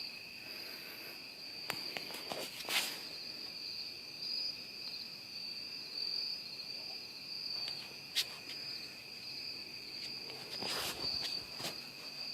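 Insects chirping steadily in a continuous high trill, with a few light clicks and knocks of handling now and then.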